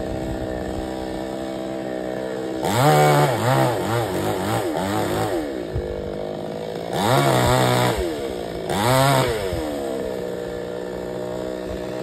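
Chainsaw engine idling and revved up three times, each time sweeping up in pitch and loudness and then dropping back to idle. The first rev comes about three seconds in and is the longest; the other two are short, about seven and nine seconds in.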